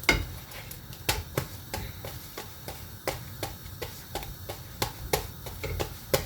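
A run of sharp kitchen-utensil taps, about three a second and fairly even, the first the loudest.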